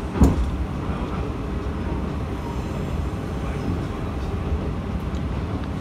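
Matsuura Railway MR-600 diesel railcar running along the line, heard from inside the car: a steady low rumble of the running gear and wheels on track. A single sharp knock comes about a quarter second in.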